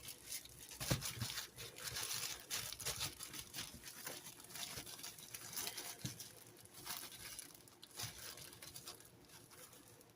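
Plastic bread bag crinkling and rustling as a hot dog bun is taken out of it, with irregular crackles and light handling taps that thin out near the end.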